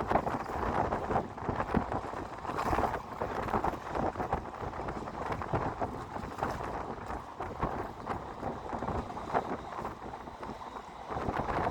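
Wind buffeting the microphone: a gusting rumble that rises and falls every second or so.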